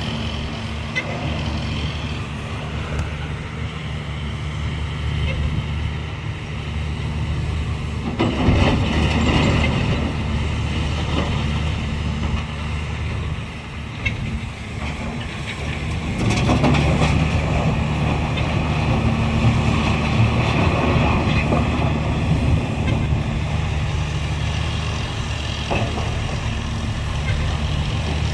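Large hydraulic excavator's diesel engine running under working load, surging louder about a third of the way in and again past the middle as the machine works.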